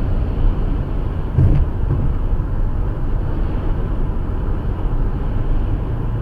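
Steady low road and engine rumble heard from inside a car's cabin at highway speed. About a second and a half in there is a brief thump.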